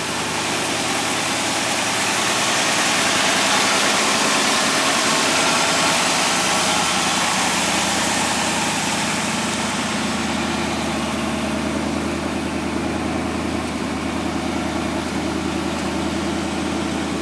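1962 Oldsmobile Starfire's V8 idling steadily and smoothly, warm after a cold start. A broad hiss swells over the first few seconds and fades away after about ten.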